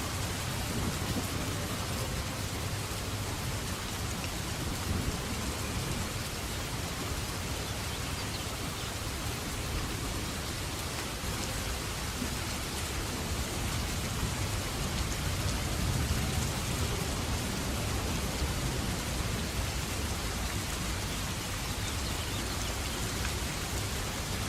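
Steady rain falling, an even hiss with a deep low rumble underneath.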